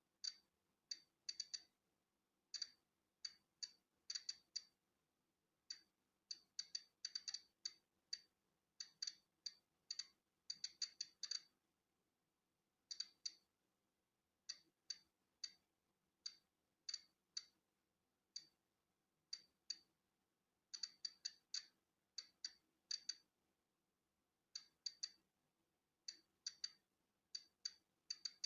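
Polon EKO-C digital Geiger counter clicking at random, uneven intervals, short sharp high-pitched clicks, sometimes bunched several together and sometimes a second or more apart. Each click is a count of natural background radiation.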